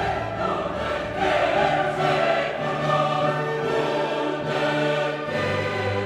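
Background music: a choir singing with an orchestra in a classical choral piece.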